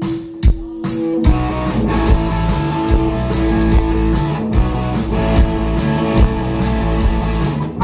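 Rock band playing the instrumental intro of a song. Drum hits sound over one held note, then about a second in the guitars, bass and drums come in together on a steady beat.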